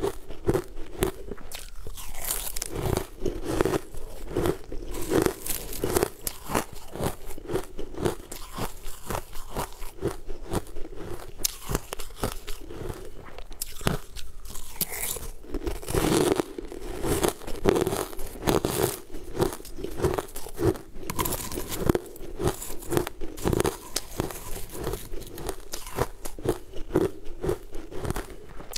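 A person chewing a dry, crumbly, crunchy sweet food up close, with many quick irregular crunches and crackles.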